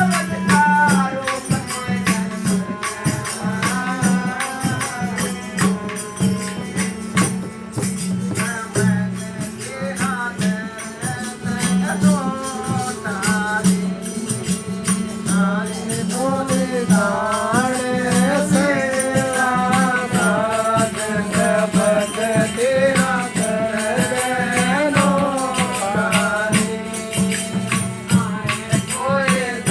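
Devotional satsang bhajan: a single voice sings a wavering melody over a steady low drone and fast, constant percussion.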